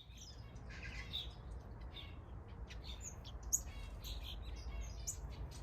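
Mixed small aviary birds, finches and softbills, chirping and calling in many short, overlapping notes, with a low steady rumble underneath.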